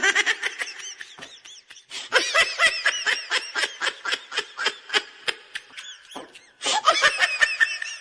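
A person laughing hard, a long run of quick laughs about five a second, breaking off briefly about six seconds in and then starting again.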